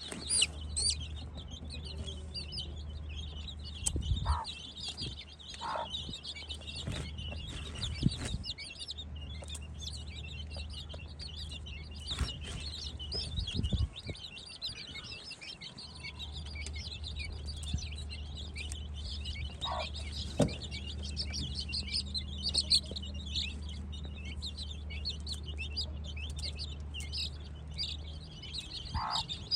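Many baby Aseel chicks peeping in rapid high chirps over a steady low hum, with a few short knocks.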